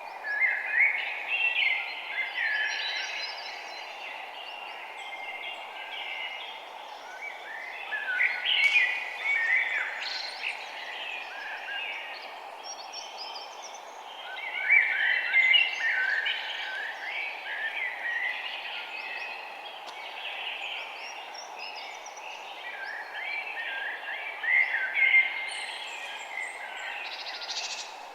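Several small birds chirping and twittering in bouts of busy chatter that swell and fade every few seconds, over a steady low background hiss.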